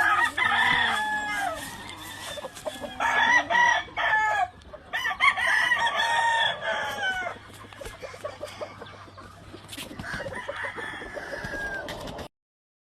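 Gamefowl stags, young Albany Black Grey gamecocks, crowing: about four crows one after another, the last one fainter. The sound cuts off abruptly near the end.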